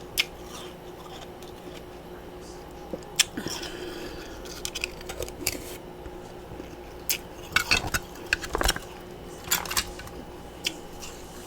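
Sharp, irregular crunches and clicks of freezer frost and ice chunks, some single and some in quick clusters, over a faint steady hum.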